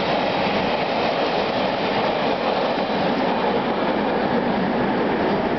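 Freight train wagons rolling on the rails: a steady, even rumble.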